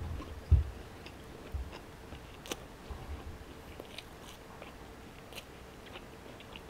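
A person chewing a mouthful of banh mi sandwich (crusty baguette with grilled pork), with a few low thumps in the first second and then scattered small clicks and smacks of the mouth.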